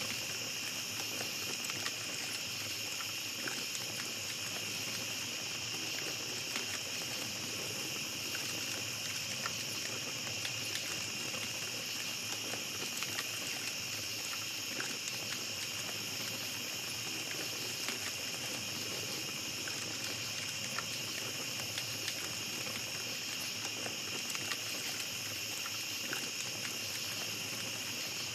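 A steady chorus of night insects, crickets chirring in a continuous high drone, over faint, scattered crackles from a small campfire.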